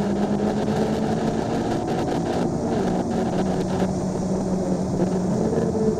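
Honda Civic Si engine pulling at full throttle on a race-track straight, heard from inside the cabin: a steady, loud engine drone over wind and road noise. Near the end the pitch starts to fall.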